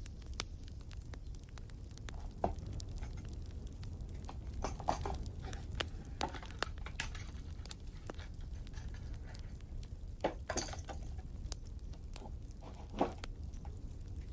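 Wood fire crackling with a steady low rumble and many small sparse pops. Now and then come louder short clicks and rustles, as Christmas ornaments are handled and hung on the tree.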